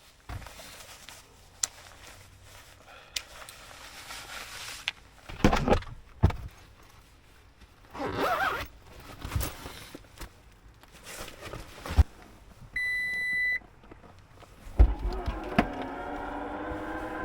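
Rustling, clicks and knocks of handling, then a single short electronic beep about two-thirds of the way through. A thump follows, then a steady mechanical hum that starts and rises slightly in pitch near the end.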